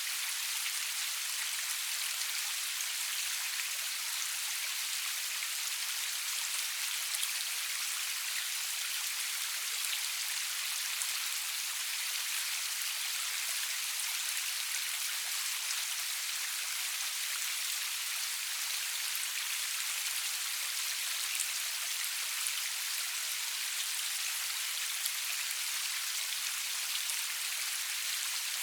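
Steady rain falling, a dense even patter of drops with the energy in the high hiss and little low rumble, no thunder.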